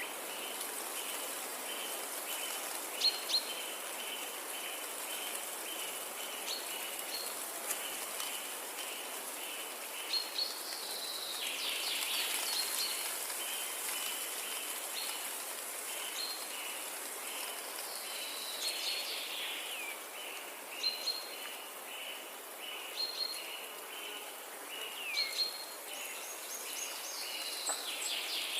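Forest ambience: birds calling, some with falling whistled notes, over a steady high insect hiss. A short chirp repeats about two or three times a second through most of it.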